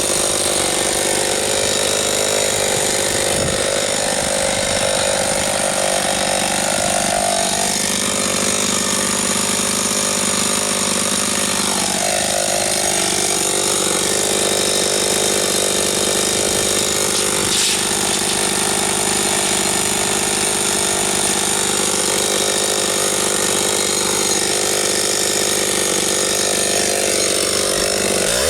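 Husqvarna 272XP two-stroke chainsaw running under load while bucking logs, its engine pitch dipping and recovering as the chain works through the wood.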